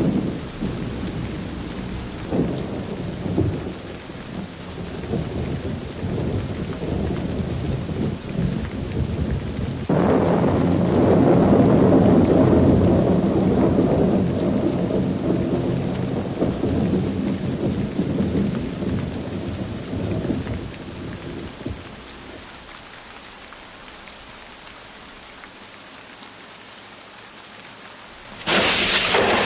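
Thunderstorm with steady rain and rolling thunder. A loud low rumble of thunder sets in suddenly about a third of the way in and dies away, the storm goes quieter for a few seconds, then a sharp, loud thunderclap breaks near the end.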